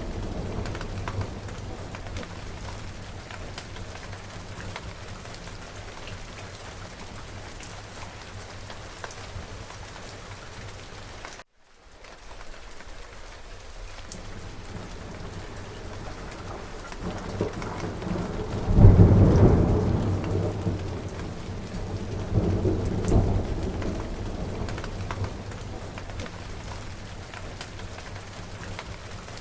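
Steady rain falling, with thunder rumbling. The sound cuts out for a moment near the middle. A roll of thunder then builds to a loud peak about two-thirds of the way through, followed by a second, smaller rumble.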